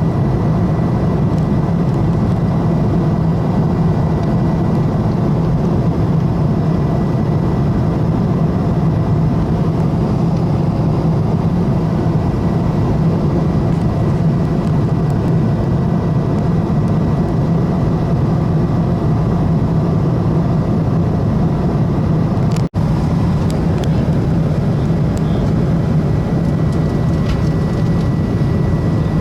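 Loud, steady low drone inside a moving vehicle, with a faint constant high whine above it. The sound cuts out for an instant about three-quarters of the way through.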